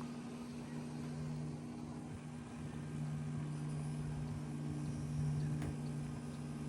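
Steady low hum of a machine running, unchanging throughout.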